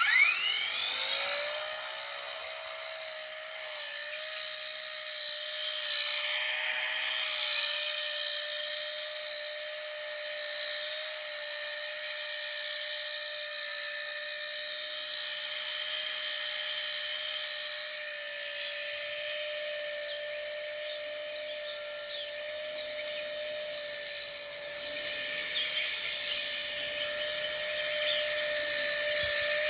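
Blade Nano S3 micro RC helicopter's electric motors and rotors whining in flight, rising in pitch as they spin up over the first second, then holding a steady high whine that wavers slightly, with a brief dip about 24 seconds in.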